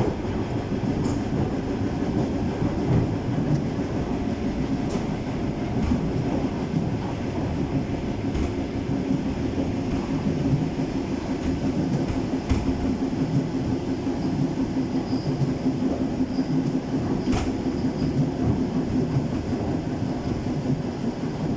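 ED9M electric multiple unit running along the line, heard from aboard: a steady rumble with a low hum, and sharp clicks every second or few as the wheels pass rail joints.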